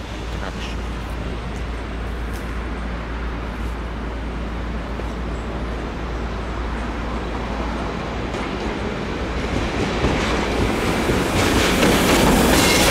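Train running on the station tracks, its rolling noise growing louder from about ten seconds in as it draws close, with wheel clatter near the end.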